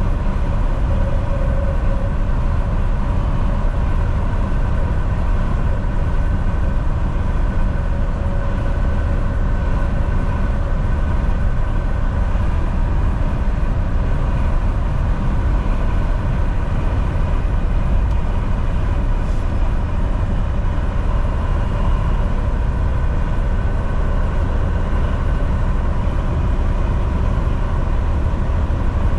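Volvo VNL 760 semi truck cruising on the highway: a steady engine drone and road rumble, with a few faint steady whining tones above it.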